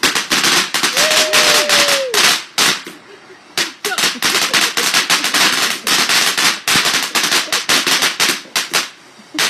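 Firework cake (barrage box) firing a rapid crackling string of bangs. It lulls briefly about three seconds in, then fires on just as densely.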